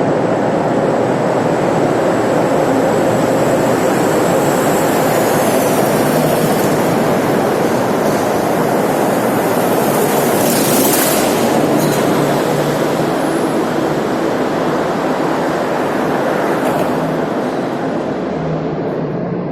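Loud, steady roar of traffic inside a road tunnel, heard from a moving motorbike: a truck's rumble, tyre and engine noise echoing off the tunnel walls, with a brief hiss about halfway through.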